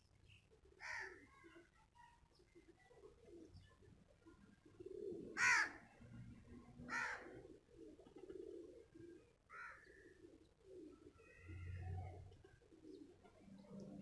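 Birds calling: a few short, sharp calls, the two loudest in the middle, over a low wavering sound like soft cooing that runs throughout.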